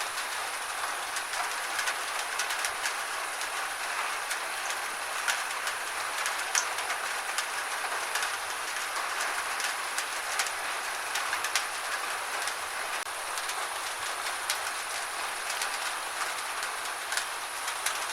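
Gentle rain falling steadily, with many scattered sharp drips and taps of drops landing.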